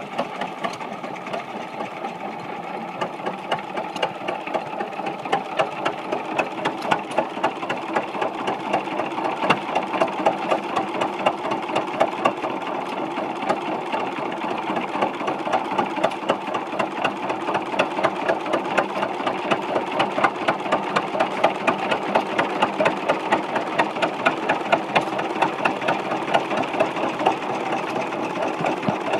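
1926 Cummins Model F oil engine running steadily, each stroke a sharp regular knock in an even beat.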